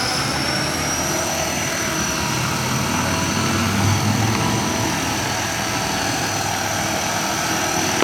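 Small electric motor of a homemade cardboard RC helicopter running at speed with its rotor spinning: a steady high whine with overtones over a whirring rush of air.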